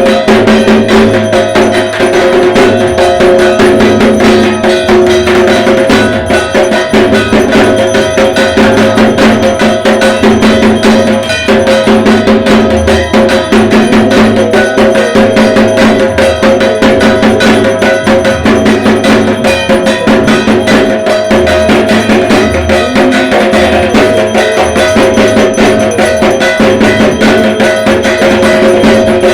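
Dhak, the large Bengali barrel drum, played in fast, continuous Durga Puja rhythms, the stick strokes coming thick and even, with a steady metallic ringing tone sounding throughout.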